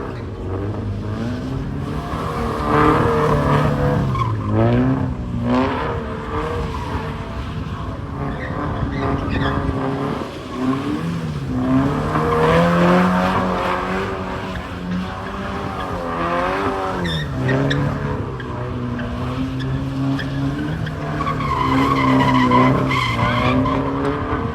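A car being drifted: its engine revs rise and fall again and again while the rear tires squeal as they break loose and slide.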